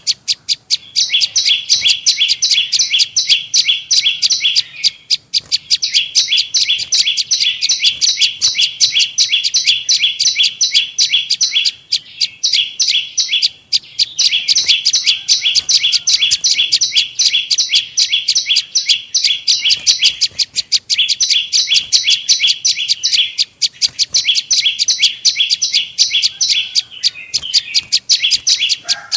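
Prenjak lumut (a prinia) calling in a bird-lure recording: a fast, continuous string of high, sharp repeated chirps, broken by short pauses every few seconds.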